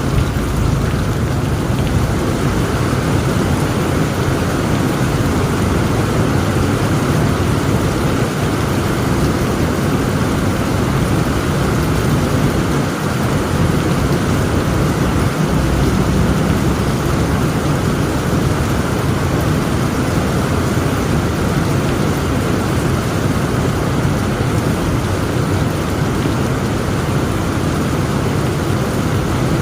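Heavy rain pouring steadily, with a continuous low rumble of thunder underneath.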